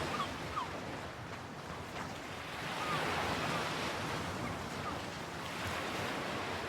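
Ocean surf washing on the shore, a wave swelling about three seconds in and then receding. Faint bird calls are heard near the start.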